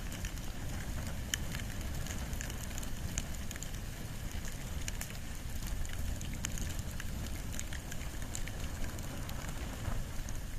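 Wood and bamboo fire burning, a steady low rumble with scattered sharp crackles and pops.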